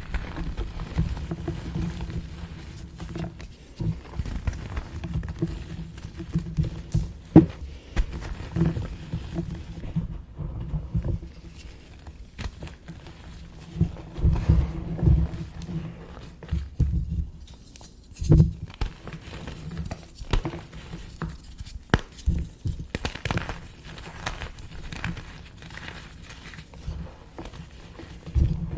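Small pieces of gym chalk being crushed and crumbled by hand close to the microphone: irregular dry crunches and crackles over dull low thuds.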